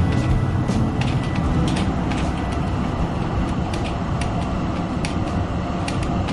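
Melbourne tram in motion: a steady low rumble with frequent short sharp clicks and creaks from the running gear and body.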